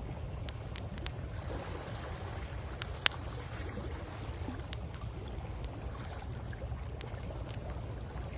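Wood bonfire crackling with scattered sharp pops, one much louder pop about three seconds in, over a steady low rumble of waves on the shore.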